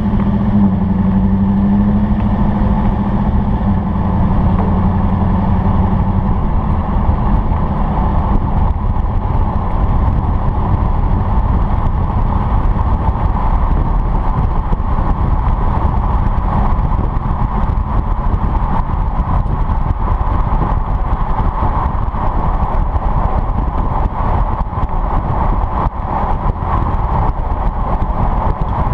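A Chevrolet Silverado's 5.3L V8 engine and exhaust running. A clear engine note in the first few seconds blends into a steady, loud rush of engine and road noise for the rest.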